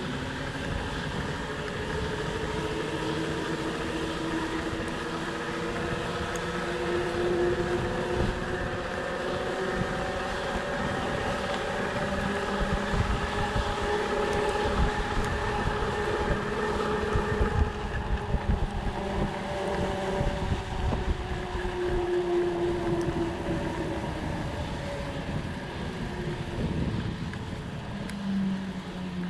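Fat bike's 4.4-inch-wide 45NRTH Jumbo Jim tyres humming as they roll, the hum's pitch drifting slowly up and down as the speed changes, over wind buffeting the microphone.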